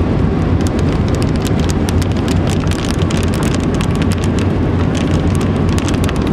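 Heavy rain pelting a car, a dense, fast patter of drops over the car's steady low hum.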